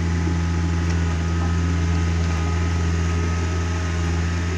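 Takeuchi TB150 mini excavator's diesel engine running at a steady, even pitch, a constant low hum.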